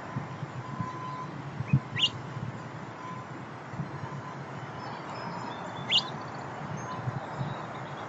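A bird gives two short, sharp chirps that sweep upward, about four seconds apart, with a low thump just before the first. Underneath runs a steady low rumble of distant traffic and a faint on-and-off tone.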